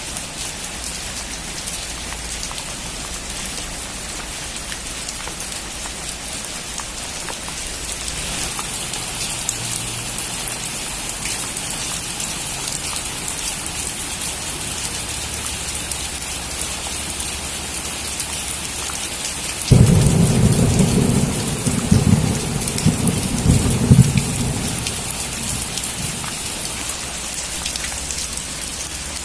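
Steady rain falling, growing heavier about a quarter of the way in. About two-thirds of the way through a thunderclap breaks in suddenly and rolls on as a deep rumble for several seconds before fading back under the rain.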